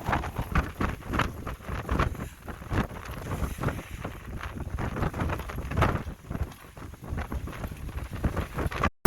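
Strong wind gusting hard across the microphone, with many irregular sharp slaps and knocks. The sound cuts off suddenly near the end.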